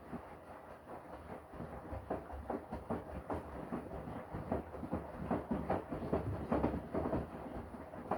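Washing machine drum turning during the wash, tumbling the wet laundry: a fast, uneven run of knocks and sloshes over a low hum, growing louder toward the later part.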